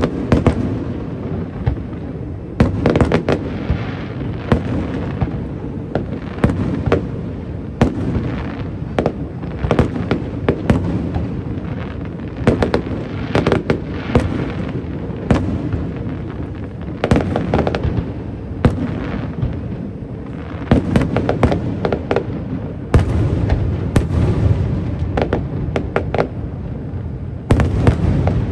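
Fireworks display: aerial shells bursting in quick succession, sharp cracks over a continuous low rumble of booms.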